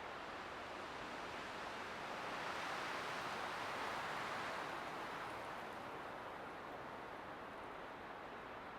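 Light winter wind blowing steadily, a gust swelling about two seconds in and easing off again by about six seconds.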